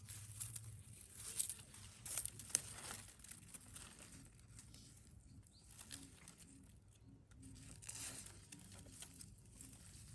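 Faint irregular crackling and rustling, with a few sharper clicks in the first three seconds.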